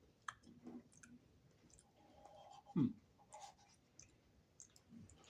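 Small clicks and mouth sounds of someone eating soft, runny ice cream from a cup. One short, low sound slides down in pitch about three seconds in and is the loudest.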